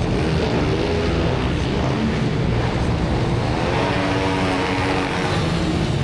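Motorcycle engines running steadily, with a wavering rise and fall in engine pitch about four seconds in.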